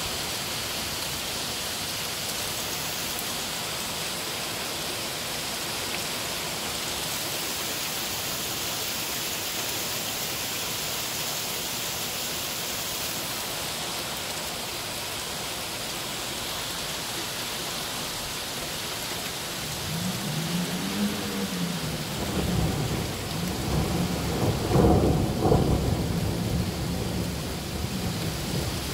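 Heavy rain mixed with hail pelting a street and parked cars, a steady hiss. About two-thirds of the way in a low rumble swells, peaks, then fades near the end.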